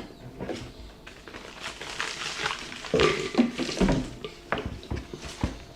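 Close-up eating sounds of sub sandwiches being chewed: irregular mouth clicks, crunches and crinkling. There is a louder, muffled burst about three seconds in.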